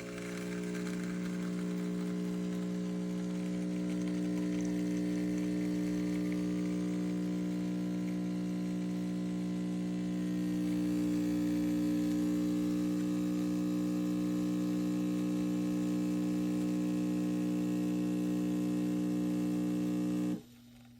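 Neretva 15-bar espresso machine's pump humming steadily as it pumps water through, a little louder about halfway, then cutting off suddenly near the end as the pump is switched off.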